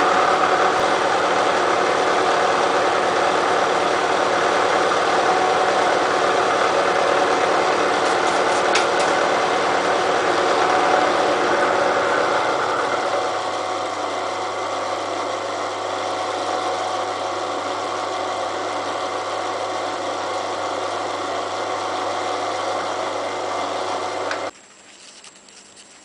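Elliott Omnimill 00 milling machine running with its cutter taking a cut in steel. A little under halfway through, the cutting noise drops away and the machine runs on more quietly, then near the end it is switched off and stops suddenly.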